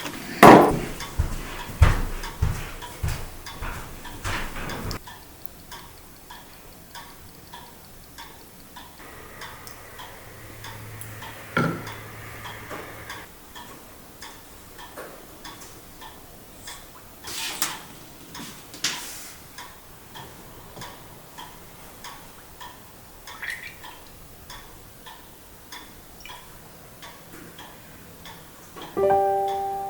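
Steady ticking throughout, with several knocks and clatters in the first few seconds and a few single sharper sounds later. Piano music starts near the end.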